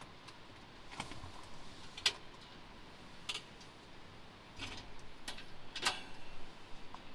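Scattered sharp clicks and light taps, about seven spread over several seconds, each brief and separate, over a faint steady background.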